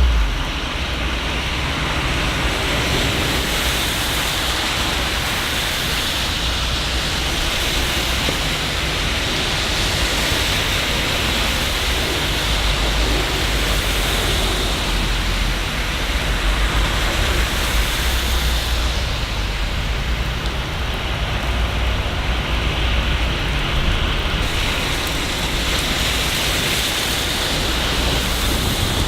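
Steady rain falling, an even hiss that swells and eases slightly every few seconds.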